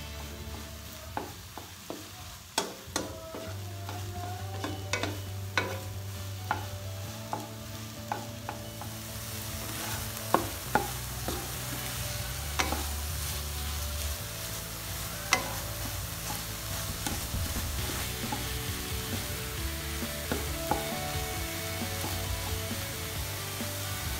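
A wooden spatula stirring and scraping scrambled eggs and tomatoes in a nonstick wok, with irregular taps of the spatula against the pan. Underneath is the sizzle of the eggs frying, which grows louder partway through.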